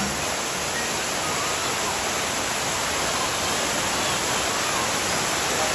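Sai Yok Noi waterfall: falling water running steadily as an even, continuous rush.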